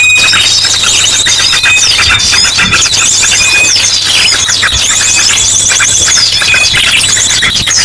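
Bird-lure recording of a crowd of small birds chirping and chattering noisily, mixed with ashy drongo calls: dense, overlapping high calls and trills with a steady high tone held through most of it and a low hum underneath.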